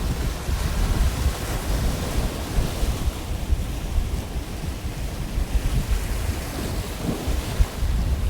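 Pacific Ocean surf breaking and washing up the beach, swelling and ebbing, with wind buffeting the microphone as a low rumble.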